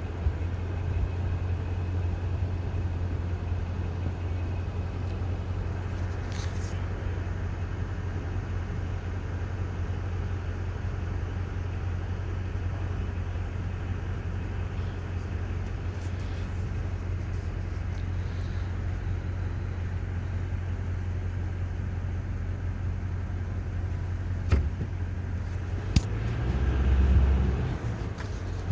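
Steady low hum of a car moving slowly, heard from inside the cabin. Near the end come two sharp clicks and a brief swell of louder low rumble.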